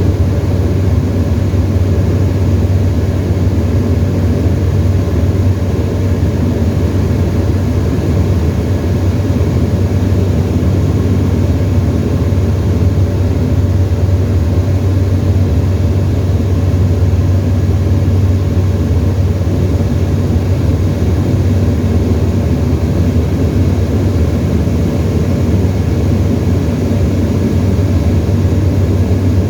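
Tecnam ultralight's piston engine and propeller running steadily, heard from inside the cockpit as a loud, even drone.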